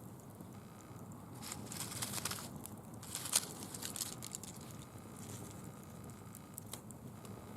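Dry fallen leaves crackling in a campfire, with two louder stretches of crackle about one and a half and three seconds in, and a sharp snap in the second.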